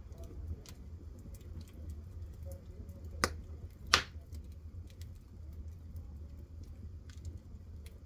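Wood fire crackling in a stove, with scattered small clicks over a steady low rumble and two louder pops about three and four seconds in.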